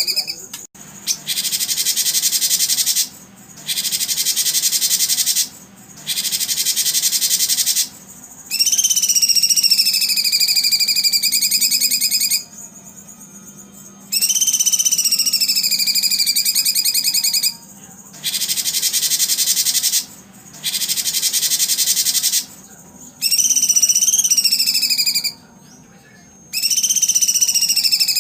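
High-pitched buzzing animal calls repeated in long bursts of about two to four seconds with short pauses between, several of them sliding down in pitch at the start and then holding level.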